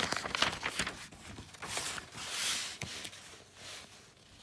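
Paper handling: a picture book's page being turned, with small clicks and a soft papery swish about two to three seconds in.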